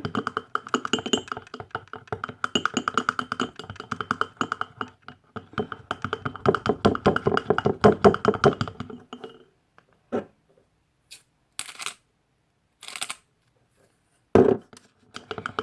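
A spoon stirring thick dish-soap slime in a bowl, clicking rapidly against the side with the bowl ringing, for about nine seconds. Then a few single clicks, short hissing sounds and one thump near the end.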